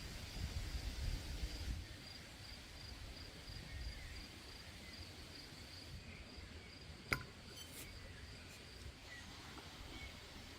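Insects chirping in a high, steady, evenly pulsed trill, with a low rumble in the first two seconds and one sharp click about seven seconds in.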